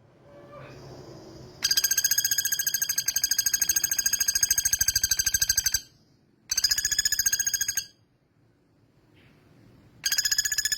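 Male common flameback woodpecker (pelatuk bawang) giving its rapid rattling trill in three bouts of many fast, even notes: a long one of about four seconds, a short one, and a third starting near the end.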